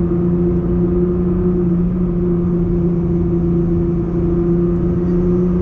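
Nissan GT-R R35's twin-turbo V6 engine running at steady revs while cruising, a constant-pitch drone over a low rumble.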